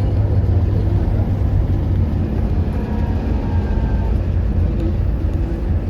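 Hyundai Universe CNG bus engine running with a steady low drone. A faint high whine drifts slightly down and fades out about two thirds of the way through.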